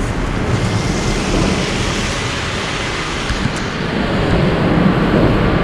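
Steady rushing noise of wind on the microphone and rain while cycling through a downpour, the hiss brightening about half a second in and easing about four seconds in.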